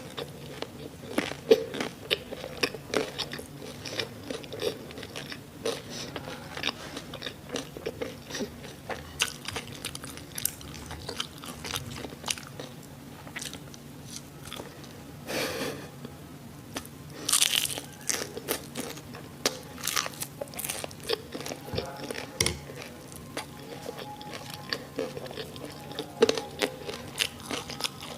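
Close-miked biting and chewing of crispy fried sausages and onions: a constant run of small crunches and mouth clicks, with a couple of louder, crisper crunches about halfway through.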